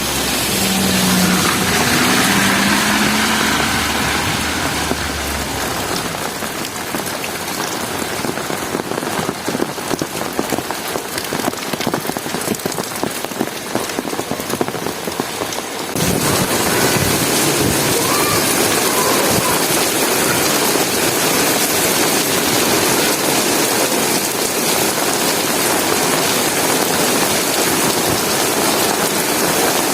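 Heavy rain falling, with close drops ticking on surfaces and a low rumble in the first few seconds. About halfway through the sound switches abruptly to a denser, steadier downpour hiss.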